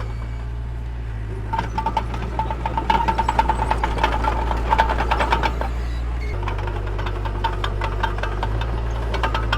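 Mini bulldozer's diesel engine running steadily under load. From about a second and a half in until about six seconds there is a rapid clatter with a steady whine over it, fitting the tracks and undercarriage working.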